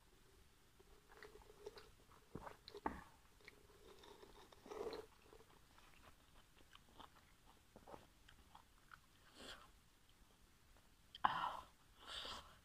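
Close-miked chewing of soft steamed pork momos (dumplings), with small lip smacks and wet mouth clicks scattered throughout. Two louder, wetter mouth sounds come near the end.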